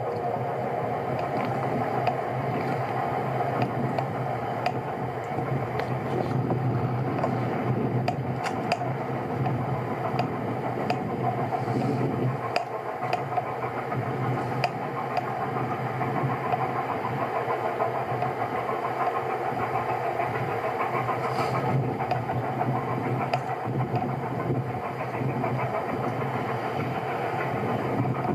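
A motor or engine running steadily, with scattered sharp ticks over it.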